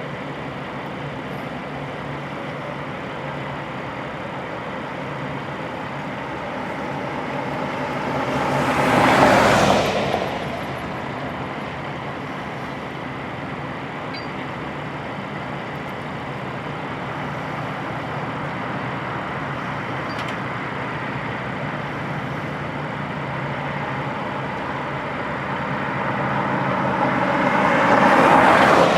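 Steady engine hum, with two vehicles passing by, each swelling up and fading away: one about nine seconds in, one near the end.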